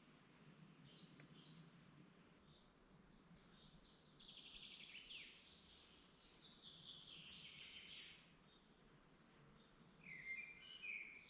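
Several songbirds singing and chirping, with a longer run of song from about four to eight seconds in and a louder phrase near the end, over a faint steady low background noise.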